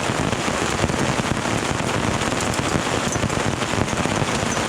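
Pea-size hail coming down steadily, a dense, even stream of small hits.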